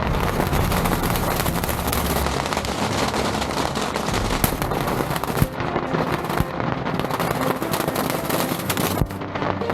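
A barrage of fireworks from a beehive rocket tower: a dense, unbroken crackle of many small bangs going off together, with a low rumble under it for the first couple of seconds.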